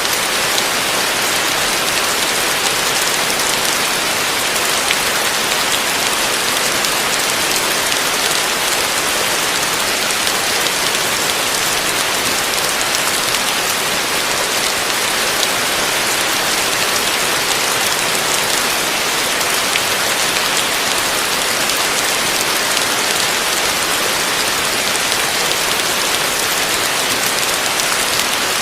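Heavy rain falling steadily: a dense, even hiss with no change in strength.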